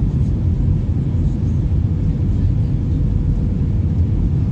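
Airbus A321 jet noise: a steady low rumble with a faint constant hum above it.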